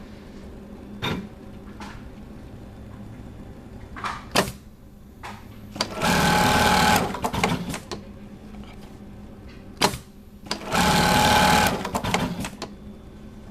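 MEB-1580 keyhole buttonhole sewing machine running in two short bursts of about a second each, with sharp clicks and clunks of its mechanism before and between them.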